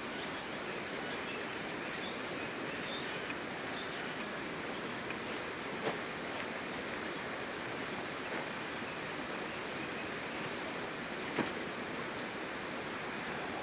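Steady rushing of flowing stream water, with two faint clicks, one about six seconds in and one near the end.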